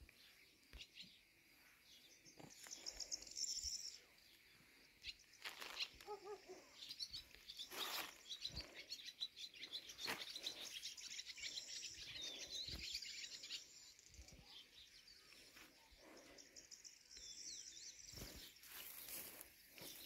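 Faint outdoor birdsong: small birds chirping and trilling in several spells, with scattered soft clicks in between.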